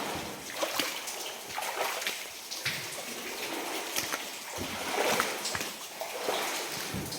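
Wellington boots wading through knee-deep water, each step sloshing and splashing in an uneven walking rhythm.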